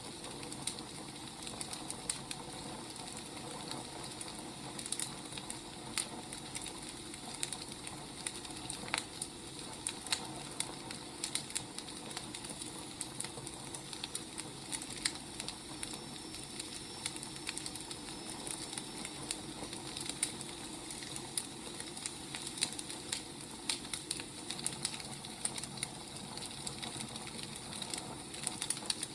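Wood fire burning: a steady soft hiss with irregular sharp crackles and pops from the logs, several a second. A faint thin high whistle runs for a few seconds midway.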